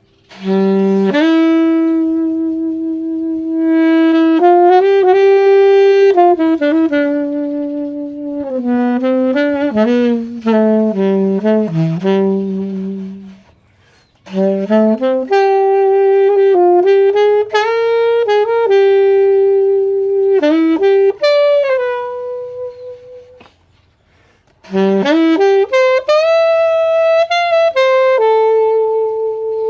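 K-Man alto saxophone played solo, a melody in three phrases with short pauses for breath between them.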